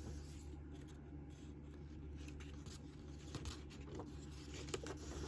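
Paper pages of a book being handled and turned: soft rustles and a few small clicks, over a steady low hum.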